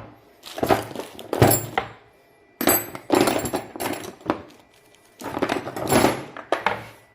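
Irregular knocking and clattering of hard objects being handled, in three bursts, then cutting off suddenly.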